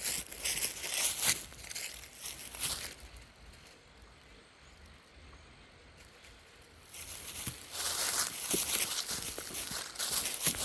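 Footsteps crunching and crackling through dry leaf litter on a woodland slope, stopping for about four seconds in the middle before starting again.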